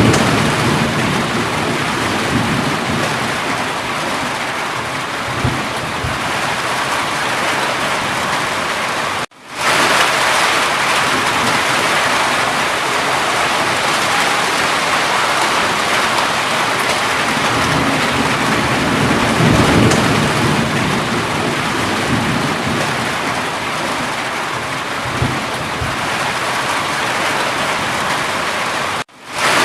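Steady heavy rain with low rumbles of thunder swelling now and then. The sound drops out abruptly for a moment about nine seconds in and again near the end.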